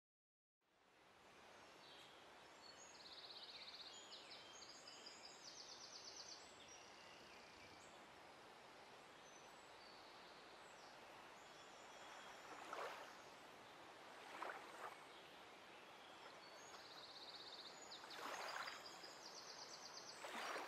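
Faint outdoor nature ambience beginning about a second in: birds chirping and trilling over a steady soft hiss of water and air, with a few brief louder swells of noise.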